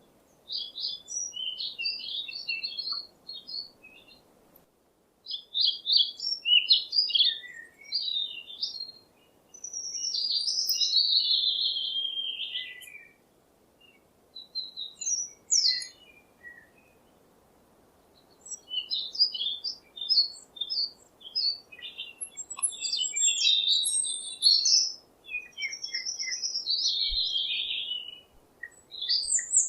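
Songbird singing in bouts of rapid chirps and twittering notes, with a few longer descending warbled phrases, pausing briefly between bouts.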